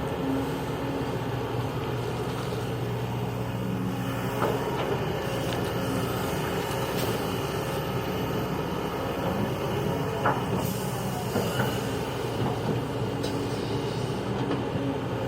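Heavy diesel earthmoving machinery running steadily, with a few sharp metallic clanks and squeals over the engine drone, the loudest about ten seconds in.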